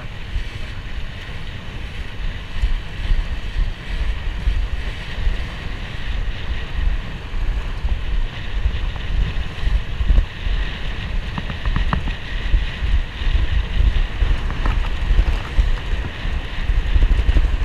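Wind buffeting the microphone on a moving motorcycle, an uneven low rumble in gusts, over a steady hiss of engine and road noise.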